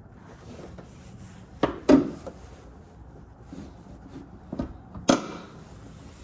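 Handling noises of small car parts: four sharp clicks and knocks, in pairs about two seconds in and near five seconds in, over a low steady background.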